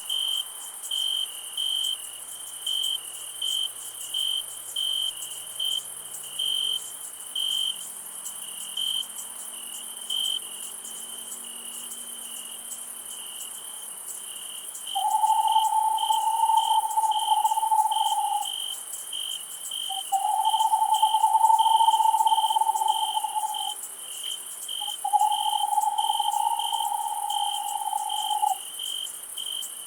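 Night insect chorus: a cricket chirping about one and a half times a second over a high, steady insect hiss. About halfway in, three long, louder calls of about three seconds each, lower in pitch, come from another night animal.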